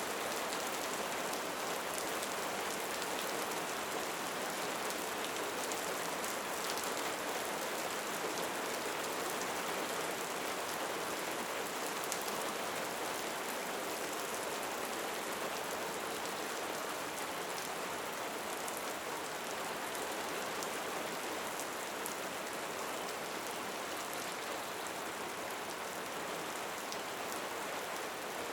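Steady rain falling, an even hiss with small scattered drop ticks through it.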